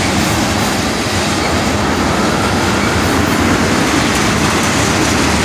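Freight train cars rolling past close by: a loud, steady rumble and rattle of steel wheels on the rails.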